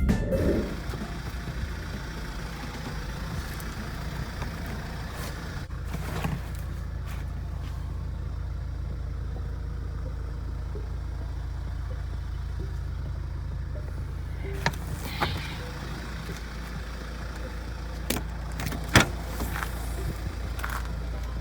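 Car engine idling steadily, with a few sharp clicks and knocks, the loudest near the end.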